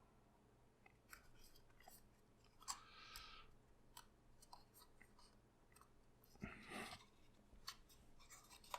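Faint handling of papercraft paper during gluing: scattered small clicks and two short rustles, about three seconds in and again about six and a half seconds in.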